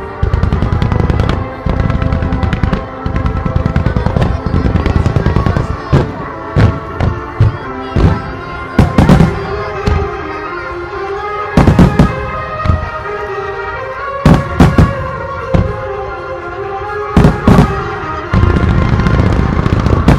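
A starmine fireworks display: a rapid barrage of launches and bursts runs together into a continuous low rumble, then gives way to separate loud booms about every second, and the dense barrage returns near the end. Music plays throughout.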